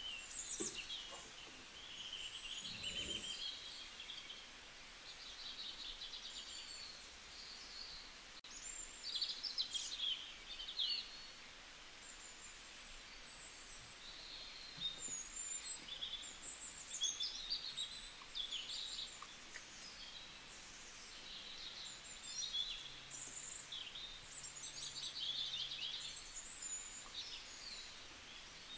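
Birds chirping and trilling: many short high calls and quick trills come and go throughout, over a steady faint background hiss.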